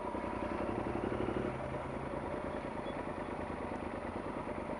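Yamaha Super Tenere XT1200Z parallel-twin engine idling steadily.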